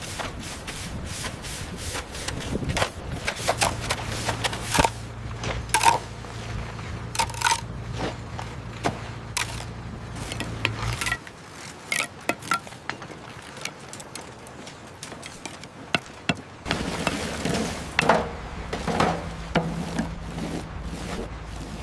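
Work sounds of clearing and building: repeated scraping, rubbing and knocking on wood and debris, with sharp knocks scattered throughout, in several short clips cut together.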